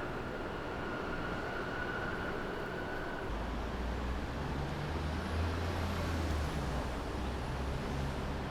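Street traffic: a motor vehicle's low engine rumble comes in about three seconds in, is loudest a couple of seconds later, and eases off near the end, over a steady street hiss.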